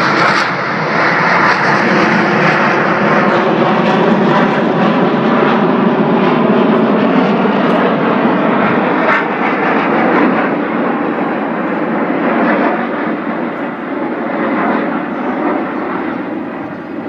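Fixed-wing aircraft engine noise, loud and steady, easing off gradually over the last several seconds.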